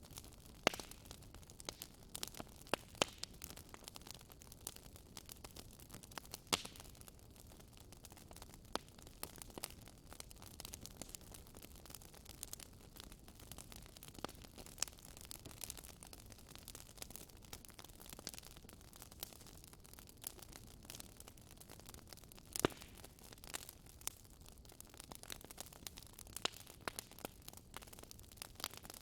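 Fireplace wood fire crackling: irregular sharp pops and snaps over a soft steady hiss, with a few louder pops standing out.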